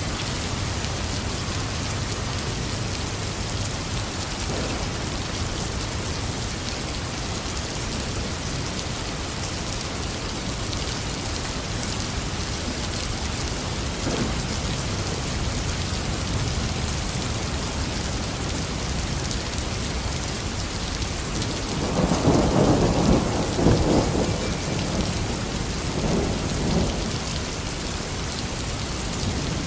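Heavy rain falling steadily, with a rumble of thunder about two-thirds of the way in and a smaller one shortly after.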